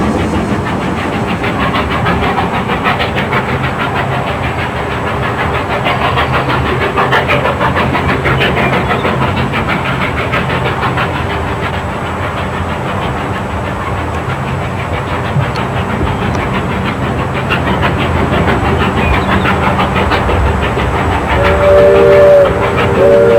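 Narrow-gauge steam train running, with steady clatter of the locomotive and cars on the track. Near the end the locomotive's steam whistle sounds a chord, a short blast followed by a longer one.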